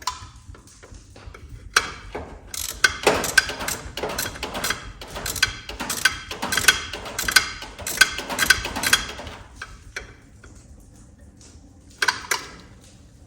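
Hand ratchet clicking in quick runs of strokes as a fastener is tightened down, with a few single clicks before and after.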